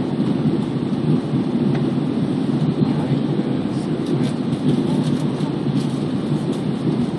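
Steady low roar inside the passenger cabin of an Airbus A320 on final approach: engine and airflow noise.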